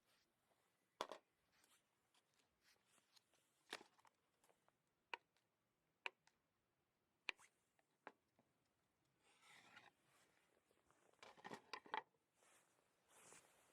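Faint, scattered sharp clicks and crunches, roughly one a second, with a short soft rustle and a quick cluster of clicks near the end.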